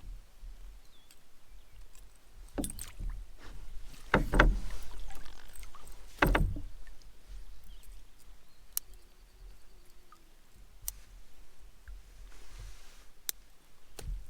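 Canoe sounds: several heavy knocks and bumps against the hull with water noise, then a few sharp clicks later on.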